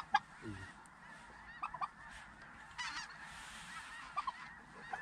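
A flock of snow geese calling: a steady clamour of many overlapping honks, with a few louder single calls standing out near the start, in the middle and near the end.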